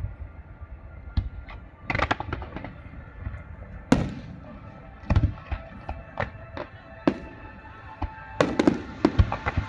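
Fireworks display: irregular sharp bangs and crackling bursts, some in quick clusters, with faint music underneath.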